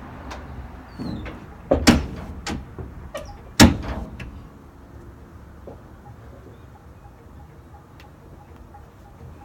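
Two loud, sharp bangs about two and three and a half seconds in, with a few lighter knocks around them, over a low rumble that fades out after about four seconds.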